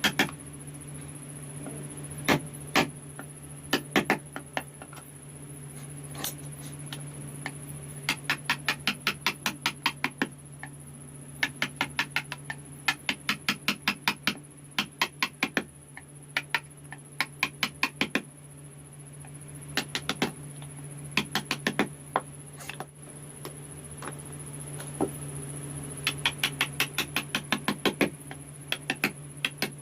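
Wood-carving chisel being struck in quick runs of light taps, about five or six a second, with short pauses between the runs. A steady low hum and a high whine run underneath.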